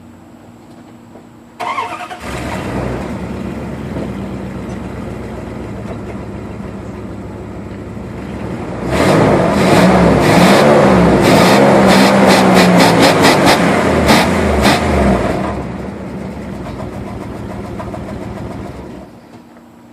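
1995 Dodge Ram's 5.9 V8 starting about two seconds in and idling through its exhaust. About halfway through it is revved hard several times in quick blips, then settles back to idle and shuts off near the end.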